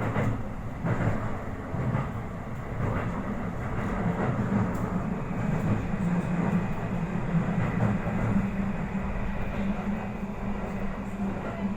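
Toei Asakusa Line 5500 series electric train running, heard from inside the car: a steady rumble of wheels on rail with a low motor hum and a faint high whine, and a few clicks early on.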